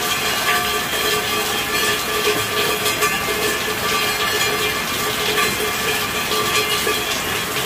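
Steady, even rainfall hiss, unbroken throughout.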